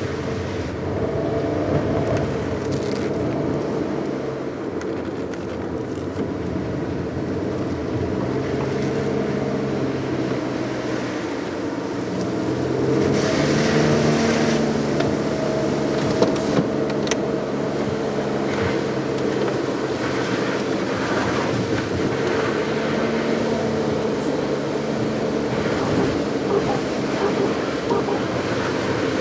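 Car driving on a wet road: the engine runs with its pitch rising and falling over a steady tyre hiss, and the hiss grows louder for a couple of seconds about halfway through.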